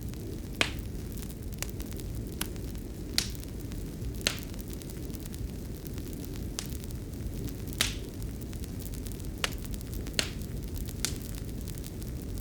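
Fireplace fire crackling: about ten sharp, irregularly spaced pops over a steady low rush of burning. The strongest pop comes just after the start.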